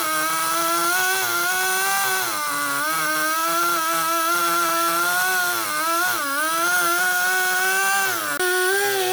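A power tool's motor running at high speed against wood, its pitch sagging and recovering three times as it bites into the cut, with an abrupt change near the end.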